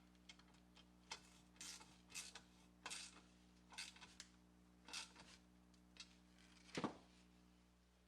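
Faint, irregular clicks and short scrapes of small metal parts being handled, over a steady low hum, with one louder knock near the end.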